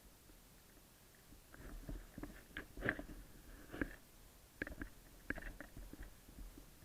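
Irregular soft clicks and knocks over a low rumble of movement against the microphone.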